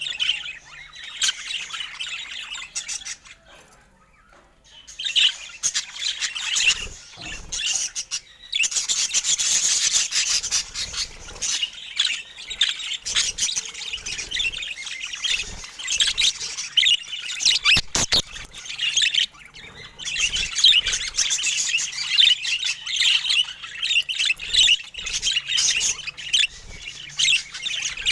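Budgerigar chattering: a dense, fast run of high chirps and squawks, with a brief lull about four seconds in.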